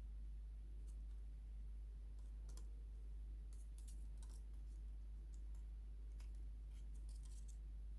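Faint, scattered small clicks and taps of small plastic and metal parts being handled and fitted, thickest in the second half, over a steady low hum.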